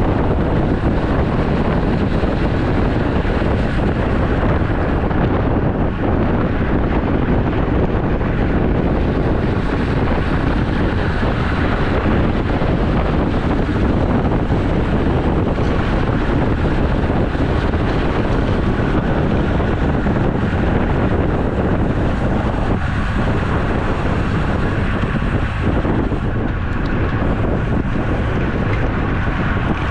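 Loud, steady rush of wind buffeting the microphone of a camera carried on a moving road bicycle.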